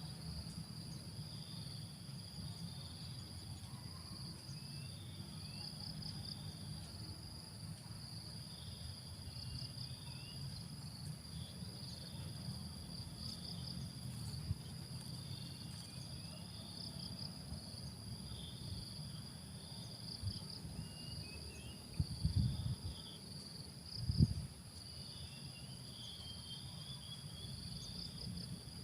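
A steady high-pitched insect chorus with pulsing trills, small birds chirping faintly over it, and a low rumble underneath. Two louder dull thumps come about 22 and 24 seconds in.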